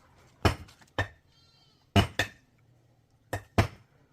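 Six sharp knocks at uneven spacing, some in quick pairs, like a tool striking a hard surface. A faint, short bleat comes between the first knocks.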